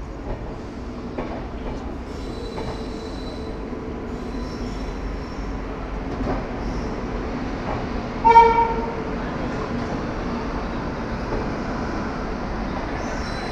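Indian Railways passenger train rolling slowly into a station, a steady rumble of wheels on rails, with one short train horn blast about eight seconds in.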